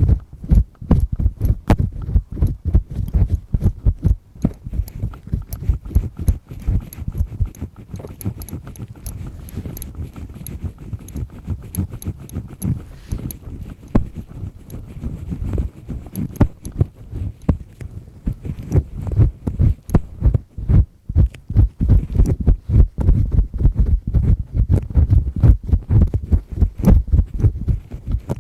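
Double-disc ear pick scraping firmly inside an ear canal: a dense, rapid run of scratchy clicks and rubbing, quieter for a while in the middle.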